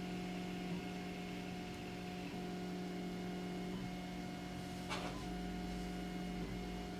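Zonestar P802M 3D printer printing: its stepper motors give a steady hum that breaks off briefly about every one and a half seconds as the moves change. There is a short burst of noise about five seconds in.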